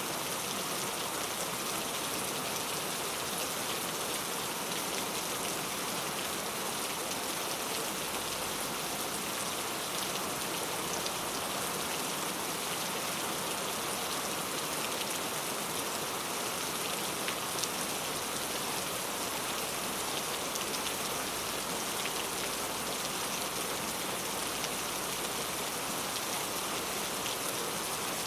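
Steady heavy rain falling, with the patter of individual drops over an even hiss.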